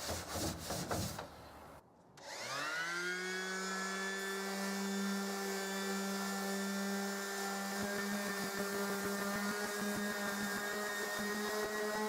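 Scrubbing strokes of wire wool on the bus's painted panel for about the first second. Then, after a short gap, a small electric motor spins up quickly and runs at a steady high hum, like a power tool, picking up light ticking and rising slightly in pitch near the end.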